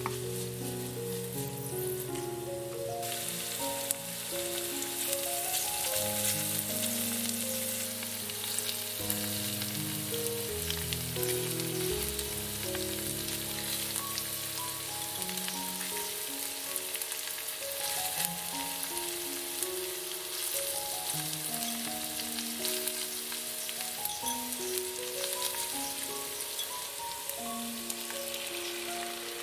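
Onion, red pepper and canned tuna sizzling as they fry in olive oil in a skillet, stirred with a wooden spoon; the hiss grows stronger about three seconds in. A slow background music melody plays over it.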